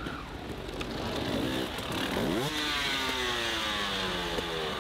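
Dirt bike engine revving: it revs up sharply about two seconds in, then its pitch slowly falls away.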